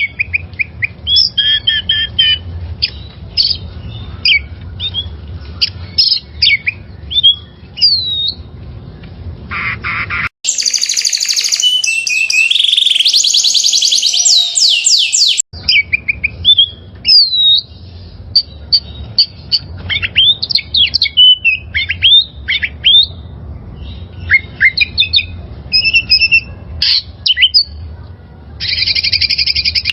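Birds chirping and squawking in many short rising and falling calls over a low background hum. From about a third of the way in to about halfway, a denser, brighter run of calls cuts in and then cuts back out.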